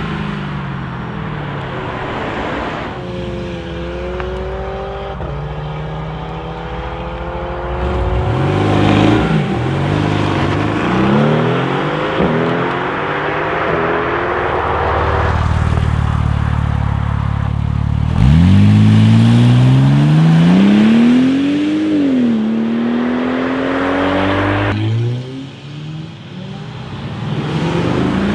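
Mercedes-AMG GT R twin-turbo V8 accelerating hard several times, the engine pitch climbing and dropping back at each upshift. The loudest pull starts suddenly about two-thirds of the way in, shifts up once, then fades.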